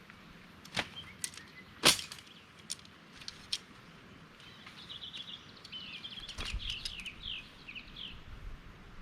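A few sharp clicks and knocks in the first four seconds, the loudest about two seconds in, followed by small birds chirping in quick bursts.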